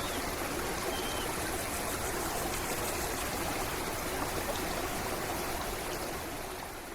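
Stream water running and trickling steadily, with one faint short bird chirp about a second in; the sound fades out near the end.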